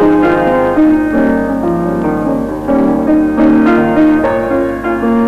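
Background music: a gentle piano melody, notes struck about every half second.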